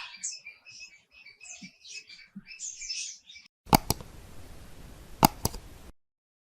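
Small birds chirping in quick, high calls for about three seconds. The chirps are followed by a stretch of hiss with four sharp clicks, which cuts off suddenly.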